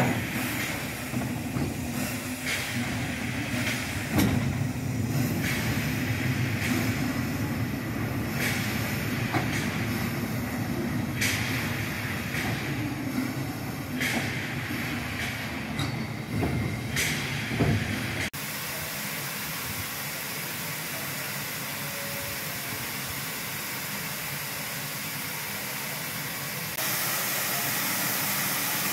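MÁV class 424 steam locomotive: a low rumble with a burst of steam hiss every two to three seconds, then a sudden change to a steady steam hiss that grows louder near the end.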